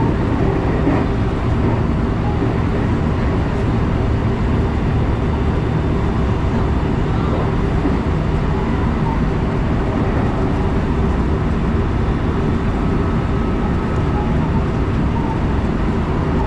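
Electric passenger train running steadily at speed, heard from inside the front car: a constant rumble of wheels on rails.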